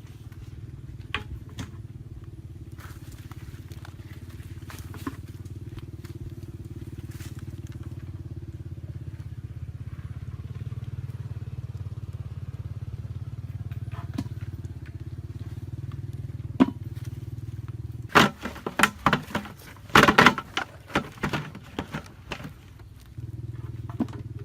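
A small engine running steadily. Near the end it breaks off for a few seconds of loud knocks and crackling clatter, then the engine sound comes back.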